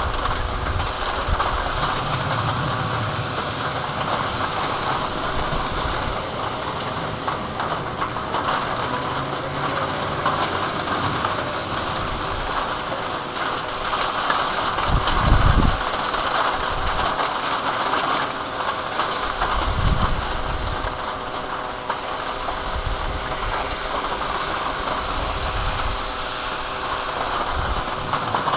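Heavy rain falling in a steady, even hiss during a thunderstorm, with a couple of brief deep rumbles around the middle.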